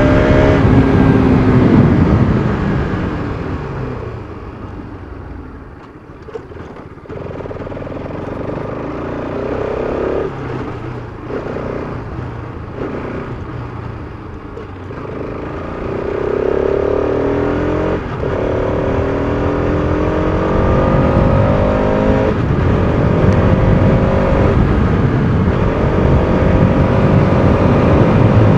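Bajaj Pulsar RS200's single-cylinder engine on the move: it winds down and goes quieter over the first few seconds, then pulls hard through the gears, its note rising repeatedly and dropping at each upshift.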